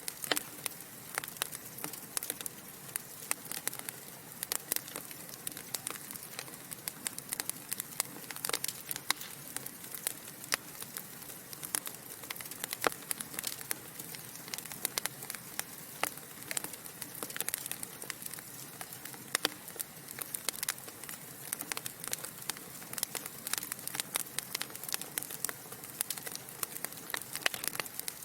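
Wood fire burning in a fireplace: a soft steady hiss of flames with many sharp, irregular crackles and pops from the burning logs, several a second.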